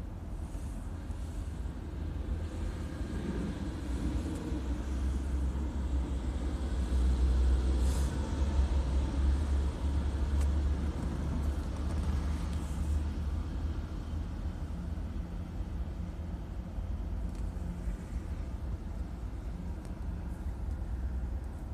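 Freight train cars rolling past with a steady low rumble. A semi truck drives by close in front about a third of the way in, making it louder for several seconds.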